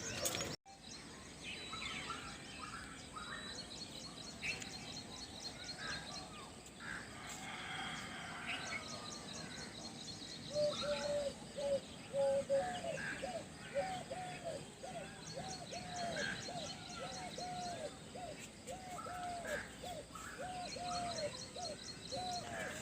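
Several birds chirping and calling. About halfway through, one bird starts a long series of short, evenly repeated calls, about two a second, that runs to the end.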